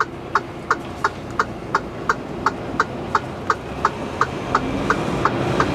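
Sharp, even ticking about three times a second in a transport truck's cab, over the steady running of the engine and road.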